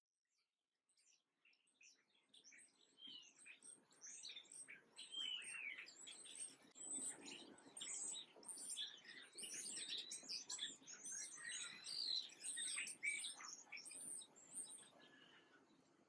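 Many small birds chirping at once: short, overlapping chirps, many of them falling in pitch. They start after a moment of near silence about a second in, are densest in the middle, and thin out near the end.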